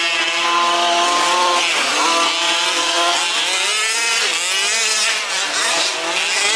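Several 1/5-scale RC off-road trucks' small two-stroke petrol engines racing, each revving up and easing off, their pitches overlapping and rising and falling against one another.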